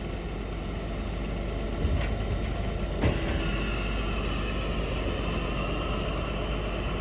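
Cat 1055F asphalt paver's diesel engine running steadily. About two and three seconds in there are two knocks, and after the second a steady high whine joins the engine.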